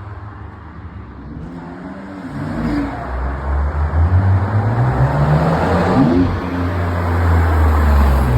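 Car engine revving and accelerating. It gets louder from about two seconds in, with the pitch sweeping up around the middle.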